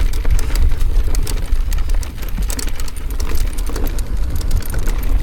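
Mountain bike rolling along a rocky trail: a steady low wind rumble on the microphone, with frequent small clicks and rattles from the bike and the stones under the tyres.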